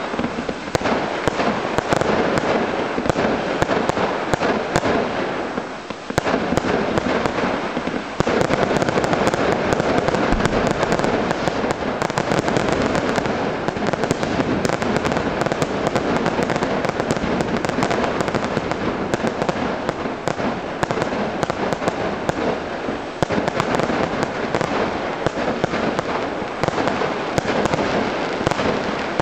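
Fireworks display: a dense, continuous barrage of rapid crackling, pops and bangs from bursting shells and crackling stars, echoing off the slopes of a quarry. The barrage eases briefly about six seconds in, then picks up again.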